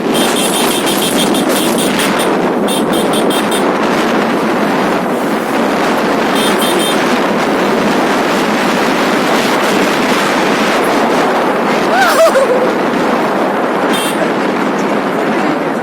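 Steady rush of wind and road noise from a motorcycle riding at speed, with groups of short pulsed high beeps now and then and a brief wavering tone about twelve seconds in, the loudest moment.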